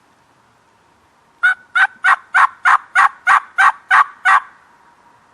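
Hunter's turkey call sounding a run of ten hen yelps, about three a second, loud and close, to draw in a gobbler.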